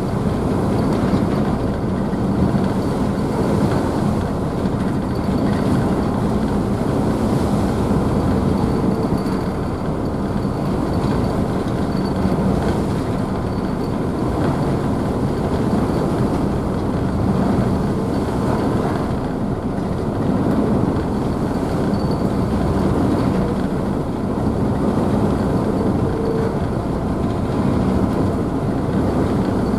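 Car ferry's engines running steadily with wake water churning and splashing behind the stern: a constant deep rumble with a hum and a rush of water noise.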